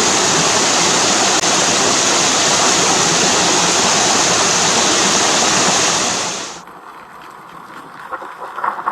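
Loud, steady rush of a stream's flowing water, falling away abruptly about six and a half seconds in to a much quieter background.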